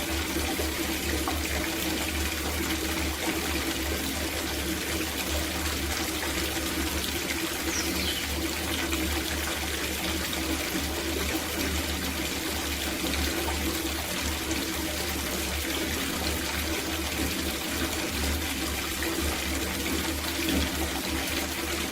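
Tap water running steadily into a copper bathtub as it fills.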